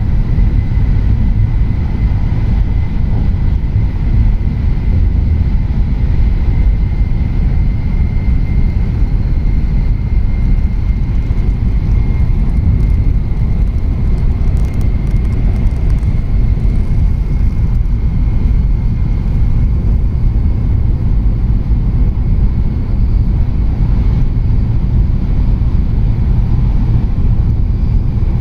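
Tohoku Shinkansen train running at speed, heard from inside the passenger cabin: a loud, steady low rumble with a faint, steady high whine above it.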